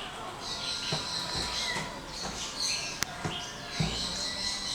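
Many birds chirping and calling, with short high chirps overlapping throughout. A sharp click about three seconds in and a couple of soft low thumps.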